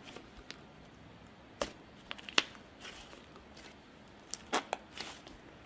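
Slime being squeezed and stretched by hand, giving scattered sticky clicks and crackles, with a louder cluster of snaps a couple of seconds in and another near the end.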